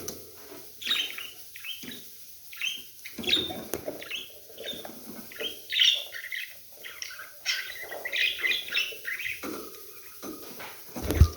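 Budgerigars chirping and chattering in a busy run of short, high calls. A loud thump sounds just before the end.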